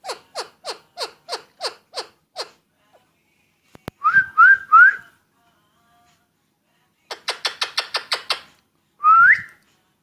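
Alexandrine parakeet calling and whistling: a run of short falling notes at about three a second, then three quick rising whistles, a fast string of notes, and a final rising whistle.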